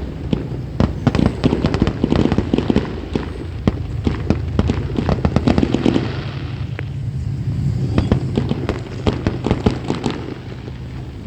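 Fireworks going off in rapid succession: a dense run of sharp pops and crackles, many a second, thinning a little in the second half. A steady low hum sits underneath from about halfway through.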